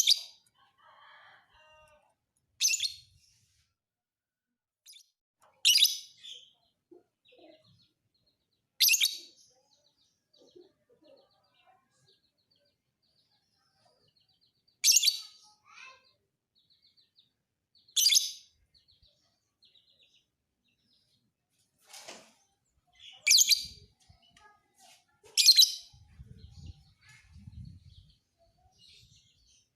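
Lovebird calling: loud, shrill, short shrieks about every two to three seconds, with faint twittering between them.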